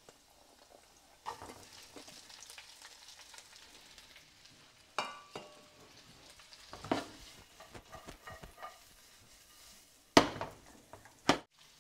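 Diced Chinese cured sausage (lap cheong) and shallots sizzling in a little oil in a nonstick pan as they are stir-fried, the sizzle starting about a second in when the sausage lands. Sharp knocks and clinks of utensil or bowl on the pan break in about five and seven seconds in, one with a brief metallic ring, and loudest about ten seconds in.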